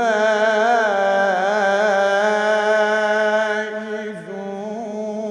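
A man reciting the Quran in the melodic tajweed style, holding one long ornamented vowel with a wavering pitch. It eases off about four seconds in, then carries on more softly.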